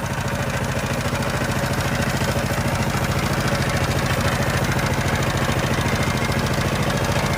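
Power tiller's diesel engine running steadily, a fast, even chugging, just after being started by hand-cranking.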